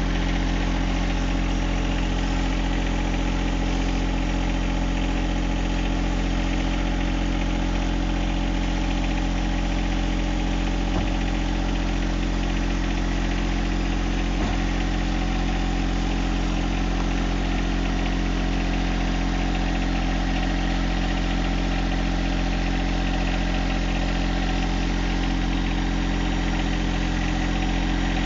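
John Deere 1025R compact tractor's three-cylinder diesel engine running at a steady speed, a constant even engine note with no revving.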